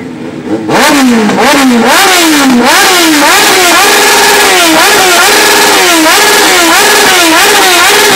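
Kawasaki Ninja 900 motorcycle engine, very loud, revved hard over and over during a burnout. After a few quick blips it rises to the rev limiter about once a second, holds there briefly and drops back.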